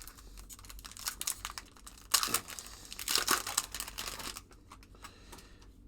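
A trading-card pack wrapper crinkling and tearing as it is opened by hand, with a burst of loud crackling in the middle.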